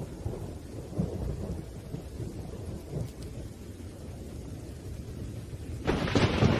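Thunderstorm: a low rolling rumble of thunder over steady rain, with a sharper, louder thunderclap breaking in near the end.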